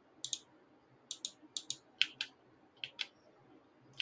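Computer keyboard typing: about a dozen short, irregular key clicks with uneven gaps between them.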